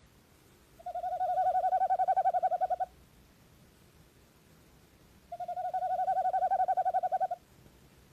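An owl giving two long, rapid trills at one steady pitch, each about two seconds long and a couple of seconds apart.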